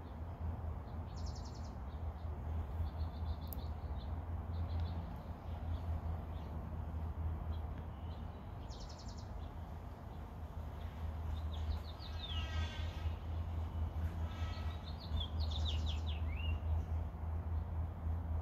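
Birds chirping now and then over a steady low rumble: a few short high calls, and a little past the middle two quick runs of notes falling in pitch.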